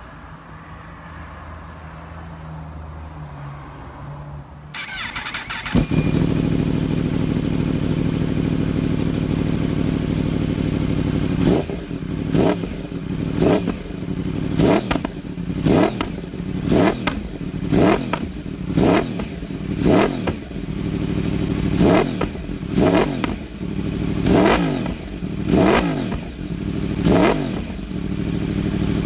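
2016 Yamaha R1 crossplane inline-four through a MIVV 3/4 aftermarket exhaust, cranked and catching about six seconds in, then idling. From about halfway it is blipped over a dozen times, roughly once a second, each a quick rise and fall in revs, and it settles back to idle near the end.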